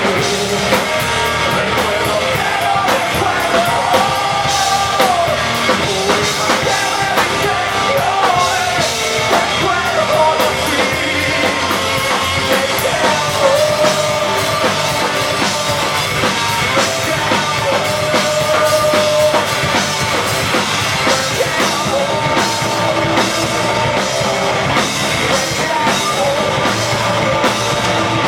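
A rock band playing loudly live, with a drum kit and electric guitars and a wavering melody line over them.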